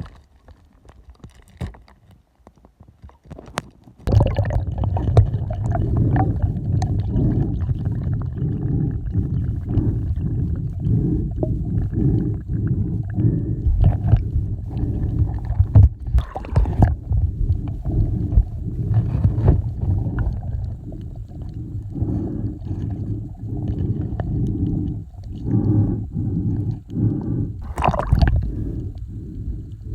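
Muffled, low water gurgling and sloshing with irregular knocks, starting abruptly about four seconds in.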